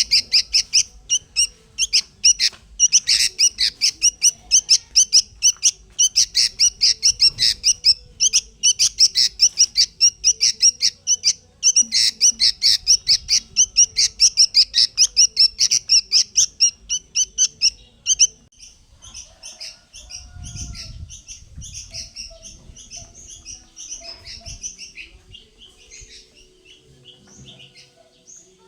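A bird chirping loudly and rapidly, about four to five chirps a second, then switching to softer, more varied chirping about two-thirds of the way through.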